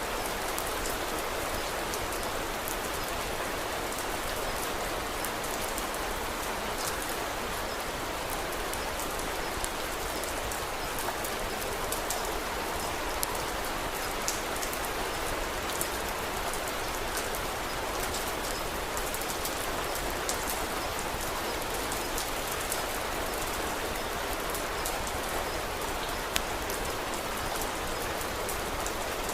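Steady, even rain hiss with scattered sharp crackles and pops of a wood fire, a few standing out louder.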